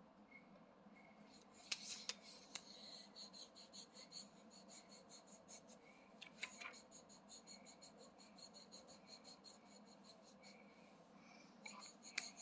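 Faint scratching of a child colouring on paper: rapid back-and-forth scribbling strokes, several a second, that stop a couple of seconds before the end.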